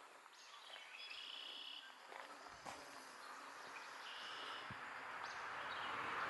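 Outdoor ambience of short, high bird chirps and trills repeating several times. A steady hiss grows louder toward the end.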